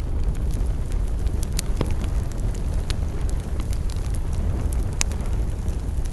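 Campfire burning: wood crackling with frequent small snaps over a steady low rumble, and one sharper pop about five seconds in.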